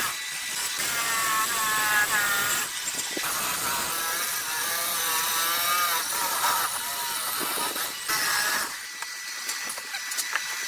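A power tool running on wood: a hissy cutting noise with a high whine that wavers in pitch. It drops off briefly about three seconds in and eases near the end.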